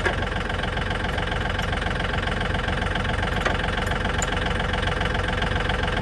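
Tractor engine idling steadily, with a brief click right at the start.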